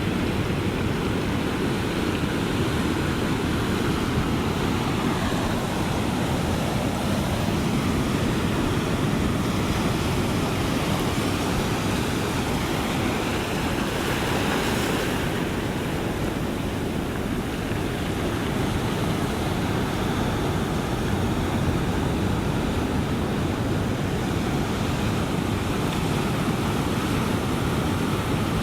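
Ocean surf: a steady, continuous rush of waves washing onto the shore, swelling slightly brighter about halfway through.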